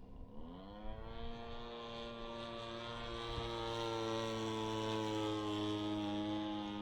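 Radio-controlled Piper Cub's 26cc two-stroke gas engine turning an 18x8 propeller, throttled up from near idle within about the first second and then running steadily. It grows louder toward the middle as the plane flies closer.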